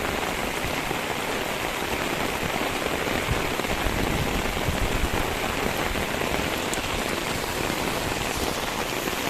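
Steady rushing of water, an even hiss with no break, which fits the overflowing Barak river floodwater or heavy rain.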